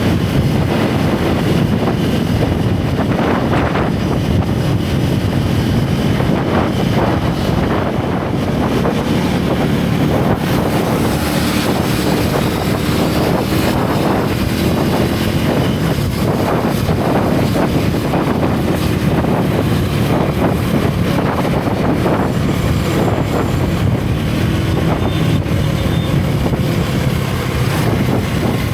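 Single-cylinder motorcycle engine and exhaust running on the move, its pitch wandering up and down gently with the throttle, with wind rushing over the microphone.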